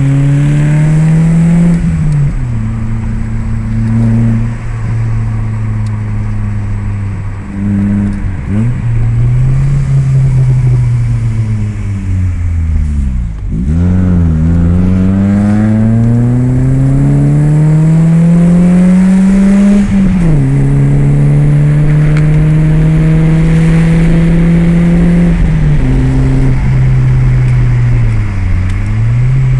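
BMW E30 318is four-cylinder engine breathing through an aftermarket Scorpion motorcycle exhaust, pulling up through the revs in long rises and dropping suddenly in pitch between them, as at gear changes. Wind noise through open car windows runs under it.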